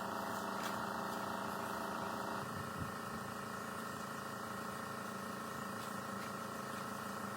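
A machine running steadily with a humming, multi-toned drone. Its tone shifts slightly about two and a half seconds in, followed by a faint knock.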